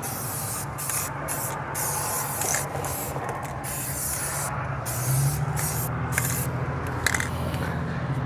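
Aerosol spray paint can hissing in many short bursts with brief breaks between them, as letters are sprayed onto a surface. A steady low hum runs underneath.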